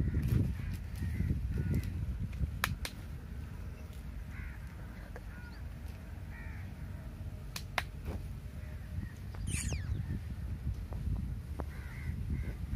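Scattered short bird calls over a steady low rumble, with a few sharp clicks.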